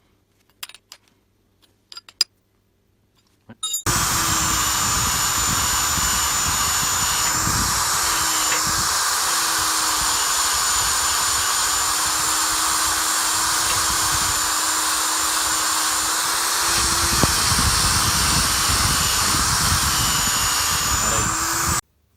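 A few light clicks, then a power tool starts and runs steadily at a constant pitch for about eighteen seconds. The pitch dips briefly a couple of times, as if under load, before the tool cuts off suddenly near the end.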